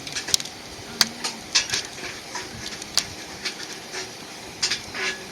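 Wood fire crackling: irregular sharp pops and snaps, about a dozen, some briefly trailing, over a faint steady hiss.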